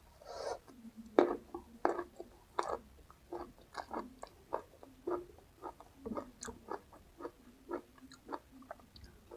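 A person biting into crisp raw vegetables and chewing them with the mouth open: a few loud crunches in the first three seconds, then steady chewing at about two chews a second.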